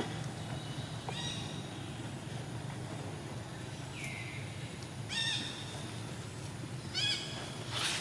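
Monkey giving short, high-pitched squeaking calls, four of them spread through the few seconds, over a steady low hum.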